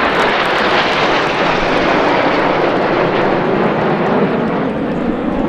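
Red Arrows' BAE Hawk T1 jet trainers flying past in formation, a loud, steady jet noise whose hiss fades in the second half as they move away.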